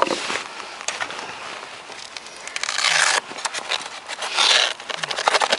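Handling noise as the flight battery is taken out of an RC model plane: rustling and scraping, with two louder rasping bursts about three and four and a half seconds in, then a run of quick clicks near the end.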